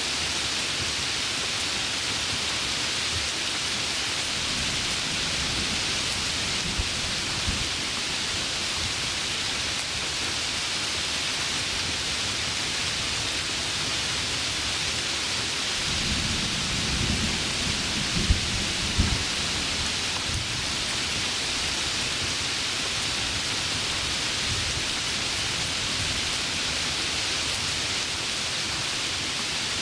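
Heavy rain falling steadily, with thunder: a low rumble a few seconds in and a louder rolling rumble with sharp cracks a little past the middle.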